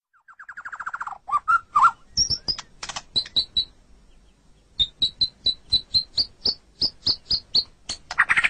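White-rumped shama (murai batu) singing: a quick falling trill opens, then varied whistled notes, and after a short pause a run of high repeated notes at about four a second. A loud, fast rattling phrase starts just before the end.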